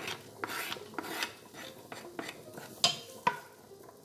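A wooden spoon scraping chopped onion off a plastic cutting board into a non-stick pot: a few short rasping scrapes, then two sharp knocks in the second half, and the spoon stirring the onion in the pot near the end.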